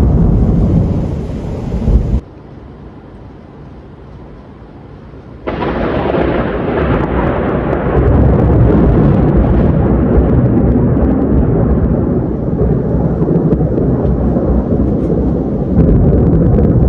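Thunder rumbling loudly and rolling on. About two seconds in it cuts off abruptly to a quieter hiss, and about five seconds in a new loud peal starts suddenly and keeps rolling.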